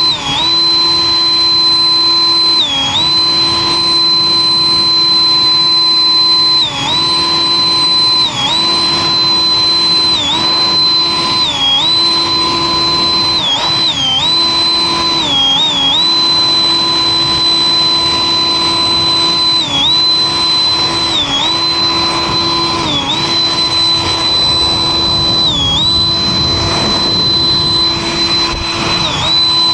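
An electric motor running with a steady high whine, its pitch dipping briefly every second or two.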